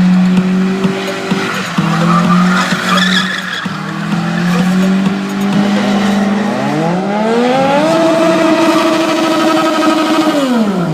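Stunt motorcycle spinning in tight circles with its tyre skidding, the engine at steady revs. About six seconds in it revs up sharply, holds high, then drops back near the end.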